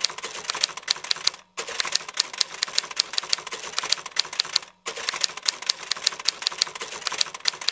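Typewriter keys clacking in a quick, uneven run, about six or seven strokes a second, stopping briefly twice.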